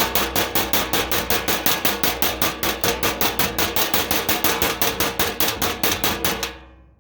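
Metal baking pan beaten rapidly with sticks and a spoon, a fast, even run of ringing hits, about six a second, that fades out near the end.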